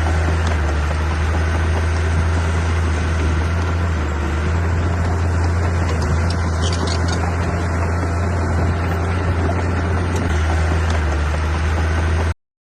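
Heavy diesel engine of earthmoving machinery, a truck or bulldozer, running steadily with a strong low hum.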